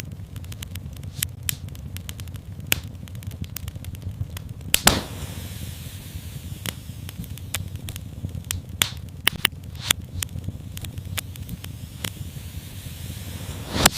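Wood fire in a fireplace crackling over a low steady rumble of flames, with frequent small snaps and a few louder pops: one about five seconds in, a cluster around nine to ten seconds, and one at the very end.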